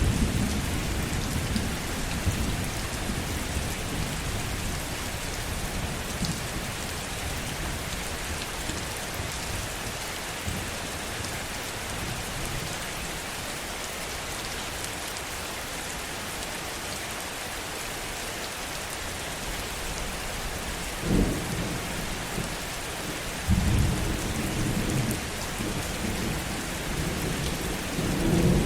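Heavy rain falling as a steady hiss, with low thunder. A rumble fades away over the first few seconds, a short low thunderclap comes about three-quarters of the way through, and thunder rolls again near the end.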